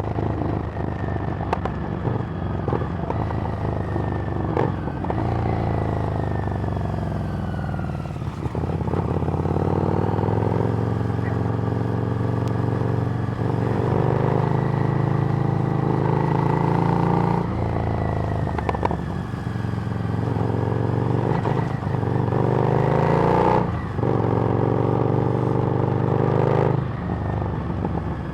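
Harley-Davidson Street Rod's V-twin engine through a Screamin' Eagle exhaust, riding along. Its pitch rises as it accelerates, then drops suddenly at each of a few gear changes.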